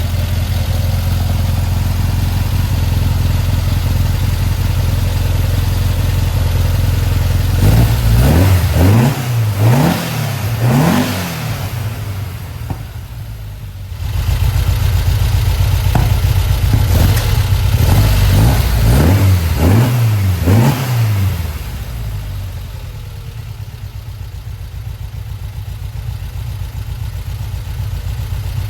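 Newly built 1904cc stroker air-cooled VW flat-four engine idling steadily, blipped up and down in quick revs a few times about eight seconds in and again around seventeen to twenty-one seconds, then settling back to a quieter idle.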